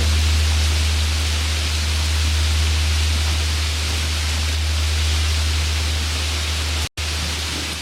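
Steady rain hiss over the long, low hum of a large Korean Buddhist temple bell still ringing on after a strike. The sound drops out for an instant a little before the end.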